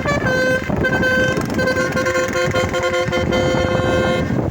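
Truck's basuri multi-tone musical horn playing a tune, its notes stepping from one pitch to the next, over the truck's running noise.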